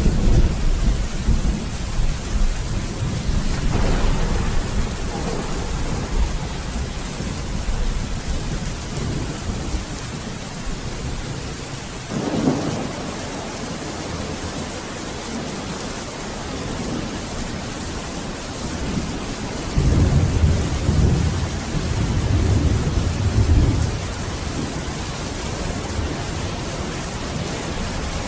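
Steady heavy rain with rolling thunder: a rumble at the start, another about four seconds in, a sharper crack about twelve seconds in, and a long low rumble near the two-thirds mark.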